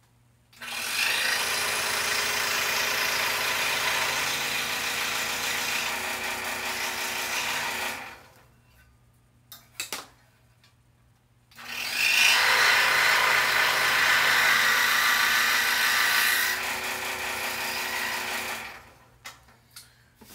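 Scroll saw cutting a poplar board, running steadily in two stretches with a pause of a few seconds between them, during which there are a couple of small clicks.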